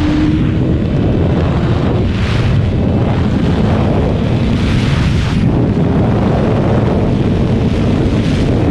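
Wind rushing over the microphone of a moving Kawasaki ZX-636R sportbike, with gusts of hiss about two and five seconds in. The inline-four engine runs steadily underneath, with no revving.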